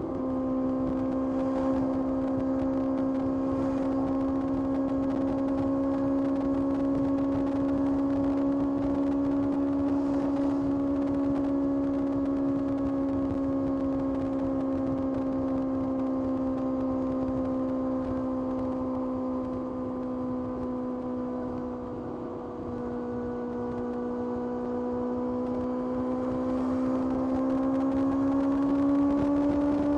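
Kawasaki ZX-6R's inline-four engine running steadily at high revs while under way. Its pitch eases slightly, dips briefly a little past twenty seconds in, then climbs toward the end as the bike accelerates.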